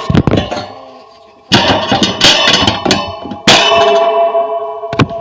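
Wire rat cage rattling and clanging as it is opened and handled to take the rats out: a run of metallic knocks, the loudest about a second and a half and three and a half seconds in, each leaving the bars ringing.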